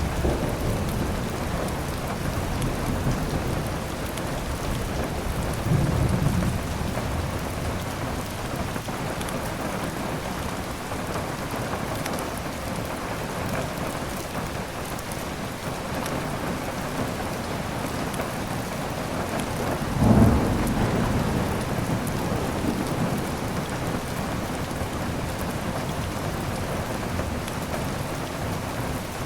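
Steady heavy rain with rumbles of thunder, a low one about six seconds in and a louder one about twenty seconds in.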